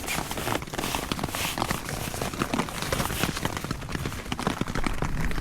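Heavy rain pattering steadily, a dense stream of drops striking a surface close by.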